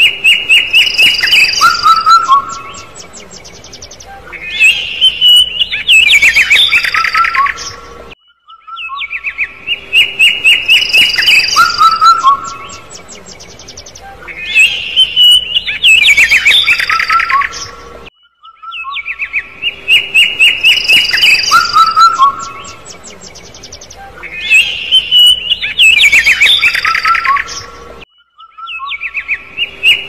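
Young birds chirping: fast runs of sharp chirps mixed with higher whistled notes and lower calls. The same sequence of about eight seconds stops briefly and starts over, three times.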